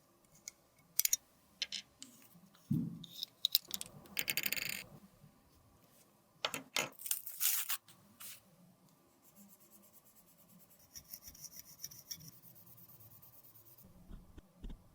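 Close-miked handling of makeup and its containers: sharp clicks and taps, a rough scraping stretch about four seconds in, then a faint fast, even ticking in the second half.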